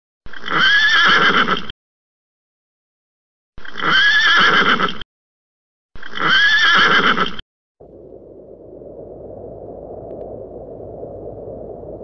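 A horse whinnying three times, each neigh about a second and a half long, rising then falling in pitch and cut off sharply, with silence between. About eight seconds in, a steady low rushing noise takes over.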